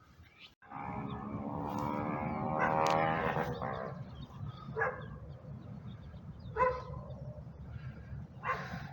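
Dog barking: single barks a couple of seconds apart, after a longer drawn-out sound that swells and fades in the first few seconds.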